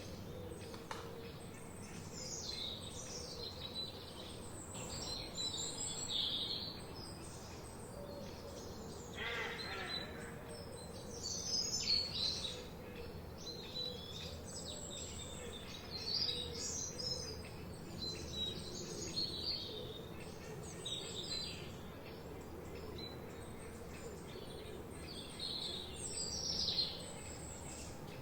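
Several songbirds chirping and warbling in a forest chorus, short high calls overlapping throughout over a steady background hiss.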